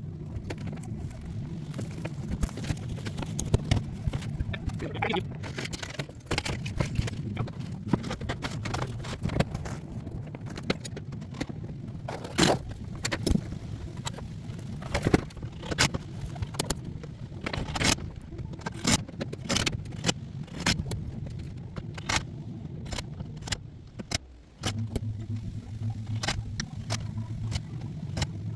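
Work on a metal roof: a string of sharp clicks and clinks from tools, screws and metal roofing sheets, over a steady low hum that drops away for a moment near the end and comes back louder.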